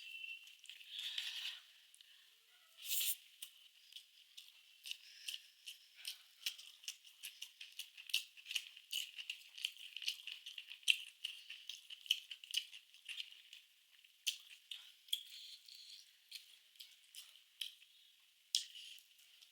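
Close-miked eating sounds: a rapid run of small sharp clicks and crunches of food being eaten, several a second, with a couple of louder bursts in the first few seconds.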